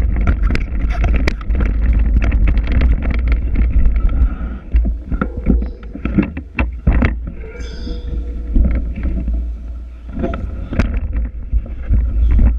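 Wind rumbling on the GoPro's microphone and the rattle of a mountain bike over the ground while riding. About seven and a half seconds in there is a brief high squeal from the Trek X-Caliber 8's disc brakes.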